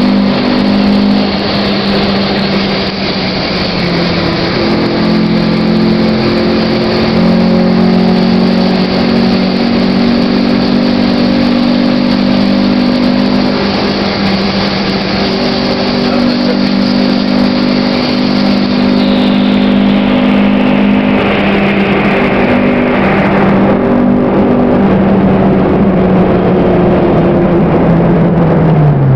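Honda Civic engine heard from inside the car at speed on a race track, running hard at steady high revs over wind and road noise. The rushing noise thins out about two-thirds of the way in, and near the end the engine pitch dips sharply and climbs again.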